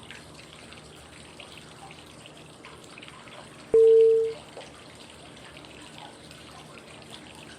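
Steady flowing-water white noise, with one short, clear cue tone about four seconds in that marks the next 5-second step of 5-5-5 breathing. The tone starts sharply, lasts about half a second and is the loudest sound.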